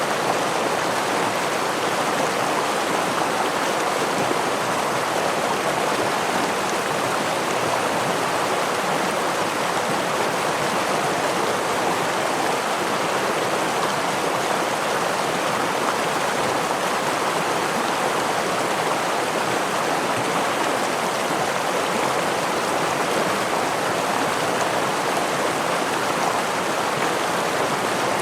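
Stream water running over rocks, a steady, even rush of water.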